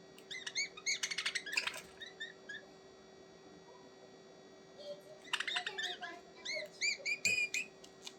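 Small birds chirping in two bursts of quick, short chirps. The first burst comes in the opening couple of seconds and the second starts about five seconds in, with a quieter stretch between.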